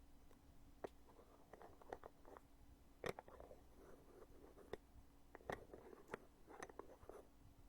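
The heavy lid of a foundation container being opened and closed by hand, giving about half a dozen sharp clicks, the loudest about three seconds in, with soft handling rustles between them.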